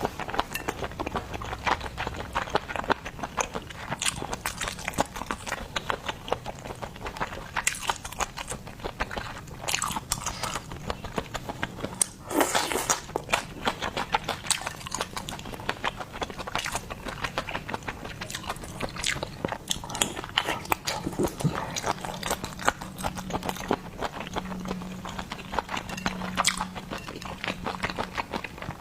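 Close-miked chewing and biting of seafood: a steady run of wet, irregular mouth clicks and smacks.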